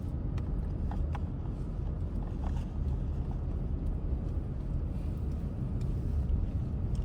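Car driving on a snowy highway, heard from inside the cabin: a steady low road and engine rumble, with a few faint ticks.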